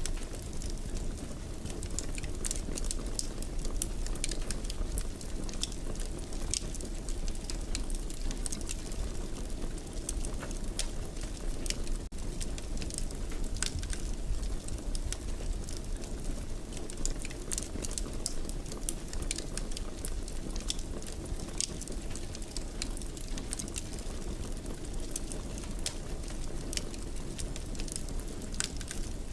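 Wood fire crackling in a fireplace: frequent small irregular pops and snaps over a steady low rush of burning.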